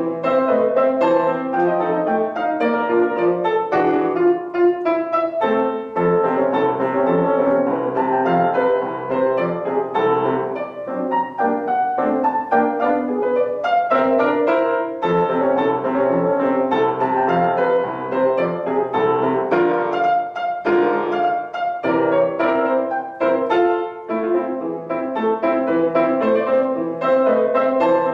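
Solo piano playing a classical-style piece, a steady flow of many quick notes in the middle and upper range.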